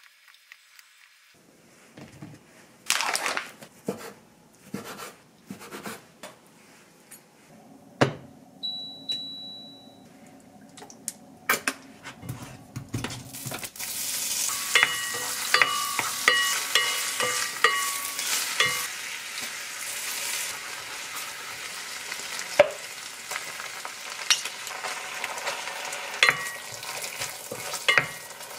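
Knocks of food and utensils against a pot, and a short electronic beep about nine seconds in. Then, about halfway through, cocktail sausages and bacon start sizzling as they fry, with a run of short squeaks and a wooden spoon stirring and scraping in the pot.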